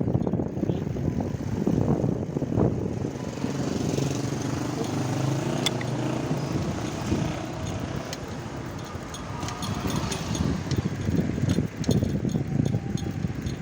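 Riding along a road in traffic: wind rumble on the microphone, with a motor vehicle's engine running close by from about three seconds in until about eleven seconds.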